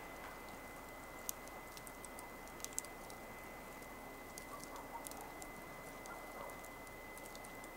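Wood fire crackling: irregular sharp pops and ticks over a soft steady hiss, with a couple of louder snaps between one and three seconds in.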